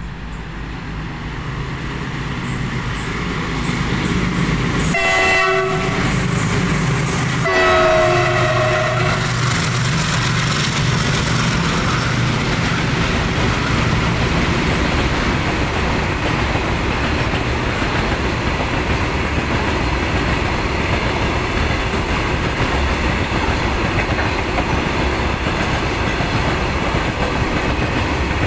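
Freight train approaching and passing through at speed, getting louder over the first few seconds. The locomotive's horn sounds twice, a short blast about five seconds in and a longer one about two seconds later. Then a long string of open freight wagons runs steadily past with the rumble and clatter of wheels on rail.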